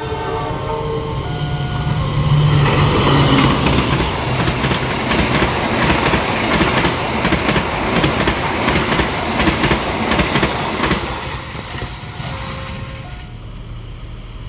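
A train passing close by: a loud rush of wheels and cars with rapid clicking over the rail joints, building up over the first couple of seconds and dying away near the end.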